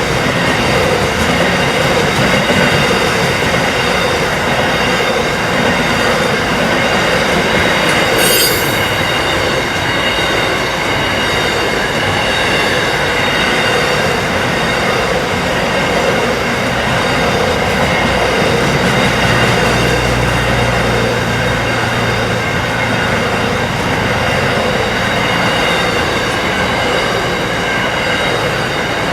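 Freight train wagons rolling steadily past, with a continuous rumble and clatter of wheels on rail and faint, held wheel-squeal tones. A brief sharp, high squeal comes about eight seconds in.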